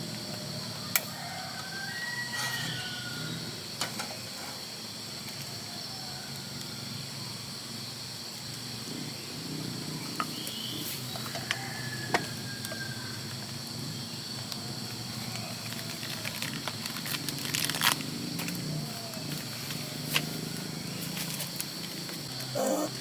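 Tropical forest ambience: a steady high insect chorus with scattered short bird chirps and a few sharp clicks.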